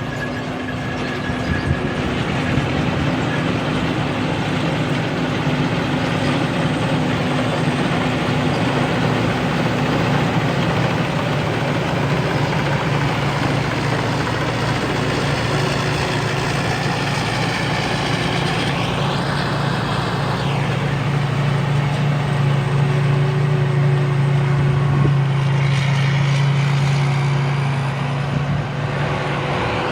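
Hino diesel engine of a rice combine harvester running steadily at working speed. The engine note grows a little stronger in the last several seconds, then eases just before the end.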